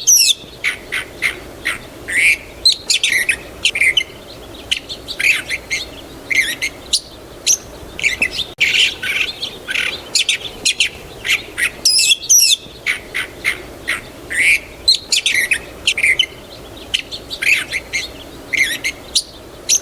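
Several small birds chirping and calling in quick, overlapping short notes, some sweeping down in pitch, over a faint steady background noise.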